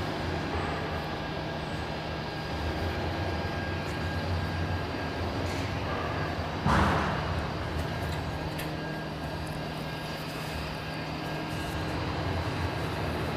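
Electric agitator drives of a large stainless steel jacketed kettle running with a steady low mechanical hum. A sudden louder rush of noise comes about seven seconds in and fades within a second.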